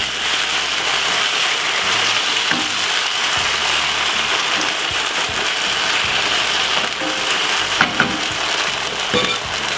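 Minced-meat and tomato sauce sizzling in a non-stick frying pan as it is stirred with a wooden spoon: a steady hiss.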